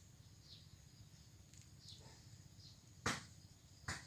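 Faint background with a few short, high falling chirps, then two sharp knocks near the end, just under a second apart.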